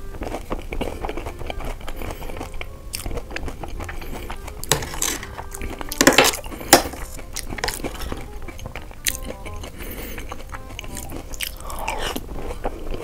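Close-miked chewing and crunching of dahi puri, crisp puri shells with yogurt and sev, in a run of short wet crackles and bites. There are louder bites and clicks about five, six to seven, nine and twelve seconds in, and a spoon scooping from the steel bowl.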